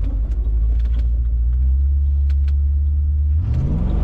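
Car engine running with a deep, steady exhaust rumble, then revved hard near the end, its pitch climbing quickly.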